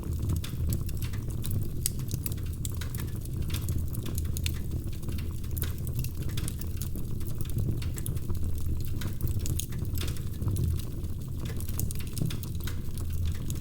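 Wood fire crackling: many irregular sharp pops and snaps over a steady low rumble of the flames.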